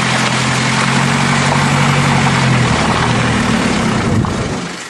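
Car engine running with road and wind noise; the low engine hum holds steady, then wavers and fades out shortly before the end.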